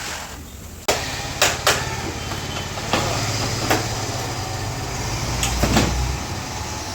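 Sharp metallic clanks of tools and parts, about six in all, as the scooter's clutch and variator side is opened up, over a steady low hum; the sound jumps in abruptly about a second in.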